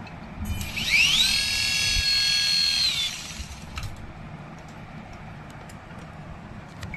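Small electric toy motor whining up to speed, holding a steady high pitch for about two seconds, then winding down.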